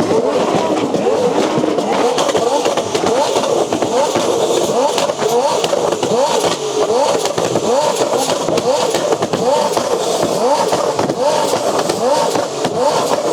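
Several car engines revving over and over, each rev a rising sweep in pitch, overlapping one another.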